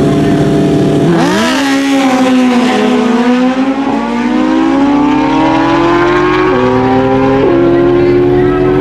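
Naturally aspirated stock drag motorcycle engines held at steady revs, then launching about a second in: the pitch jumps, dips, and climbs steadily as the bikes accelerate. There are two sudden drops in pitch near the end, about a second apart, as they shift up.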